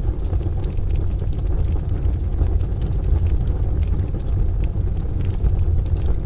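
Rain and thunder ambience: a steady low rumble with a rain-like hiss above it, and a few sharp pops and crackles from a wood stove fire scattered through.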